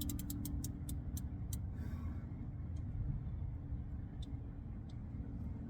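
Ratchet wrench with a 15 mm socket clicking: a quick run of light clicks in the first second and a half, then a few scattered clicks, over a steady low rumble.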